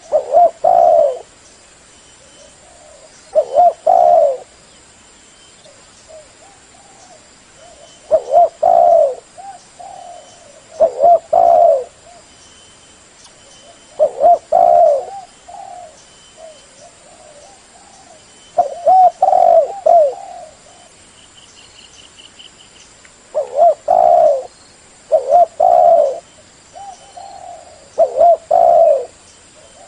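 Spotted dove cooing: a loud phrase of several mellow coo notes, repeated about every three to four seconds.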